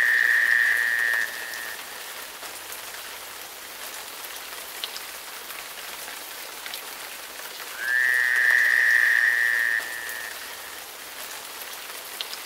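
Steady rain falling, with a frog's high call on one pitch heard twice: at the start and again about eight seconds in, each lasting about two seconds.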